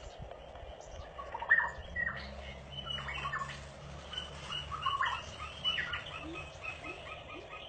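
Several birds chirping and calling in short, varied notes, over a low steady hum.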